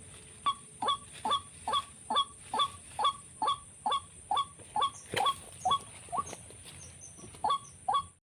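White-breasted waterhen calling: a run of short, honking notes, each dropping sharply in pitch, repeated a bit over twice a second with a brief pause near the end.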